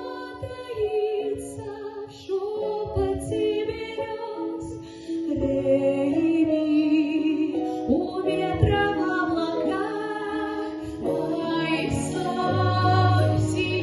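A song with a female voice singing over an instrumental backing track of held chords and bass.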